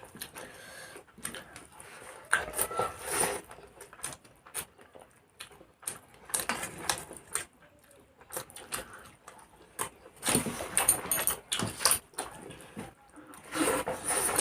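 Eating sounds: chewing and smacking, with rice and chicken handled on plates, heard as irregular clicks and short noisy bursts.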